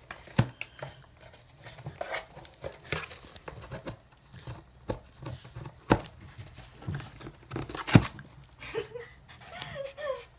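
A Shiba Inu scratching and tearing at its bed, with irregular rustling, ripping and scraping and a few sharp knocks, the loudest about eight seconds in. Near the end there are a few short whine-like glides in pitch.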